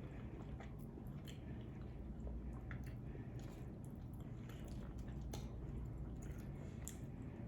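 A person chewing food close to the microphone, with irregular small wet mouth clicks over a steady low hum.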